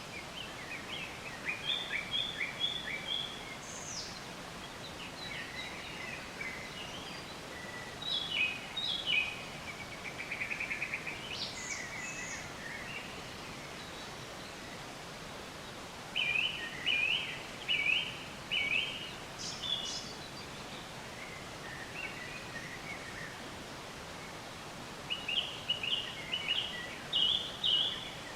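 Songbirds chirping and singing in short clusters of quick high notes, with a fast trill partway through, over a steady background hiss.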